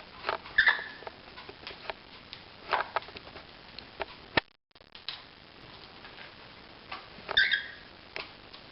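Cockatiels giving two short chirps, one about a second in and one near the end, among scattered light clicks, taps and scratches. There is a brief drop to silence just after the midpoint.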